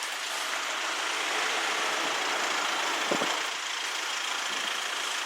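Steady hiss of rain mixed with the rush of a vehicle, swelling slightly in the middle and easing off toward the end.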